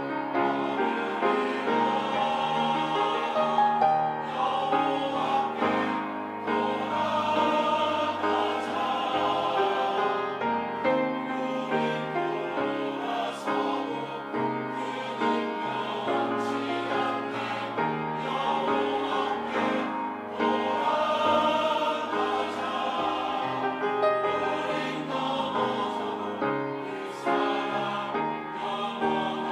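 Church choir singing a hymn anthem in parts, holding sustained chords.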